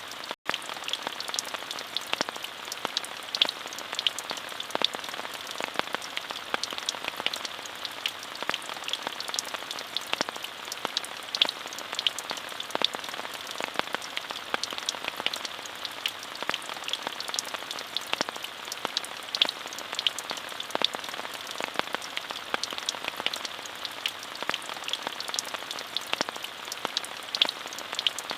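Steady rain: an even hiss with many sharp individual drop ticks through it. The sound cuts out for an instant about half a second in.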